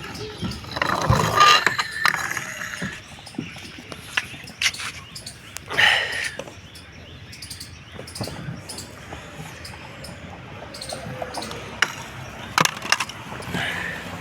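Toy tractor's wheels rolling and scraping down a playground slide, with a louder rush about a second in and again about six seconds in, and scattered knocks and clicks.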